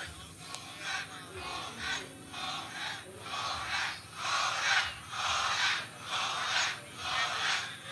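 A large crowd chanting and shouting in rhythm, about two shouts a second, swelling louder around the middle.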